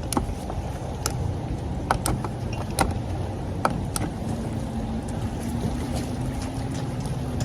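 Boat motor idling with a steady low rumble, with a few sharp knocks and clicks in the first half.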